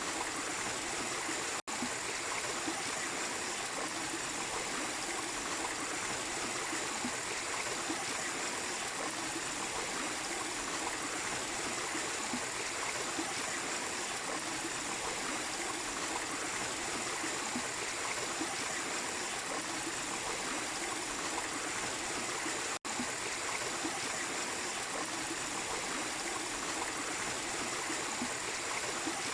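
Small waterfall and its stream running steadily. The sound drops out for an instant twice, about two seconds in and near the end.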